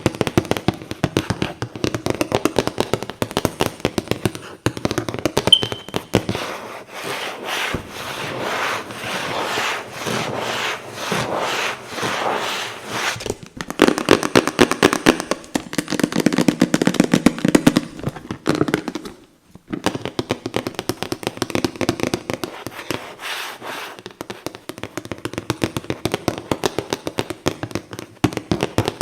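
Rapid tapping and scratching on boxes: a dense, continuous run of quick clicks and scrapes, broken by a brief pause about nineteen seconds in.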